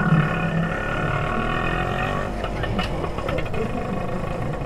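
Motorcycle engine running steadily at low revs, with light rapid ticking, about four or five a second, in the second half.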